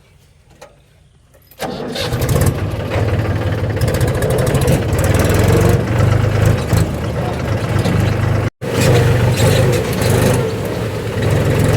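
Mahindra 275 DI tractor's three-cylinder diesel engine comes in suddenly about two seconds in and runs loudly and steadily, breaking off for an instant past the middle.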